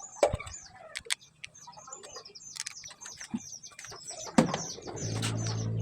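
Small birds chirping over and over in short, high notes, with a few sharp knocks. Near the end a motor starts up and gets steadily louder.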